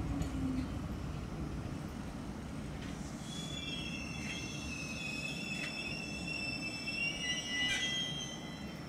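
Enshu Railway 1000 series electric train rolling slowly to a stop with a low rumble. Its falling motor whine fades out just after the start. From about three seconds in come high, several-pitched squeals as it brakes, loudest near the end.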